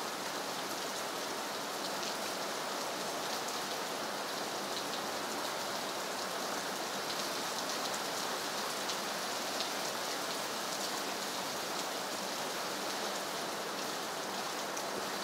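Steady rain falling on leafy trees and open water: an even hiss sprinkled with many small drop ticks.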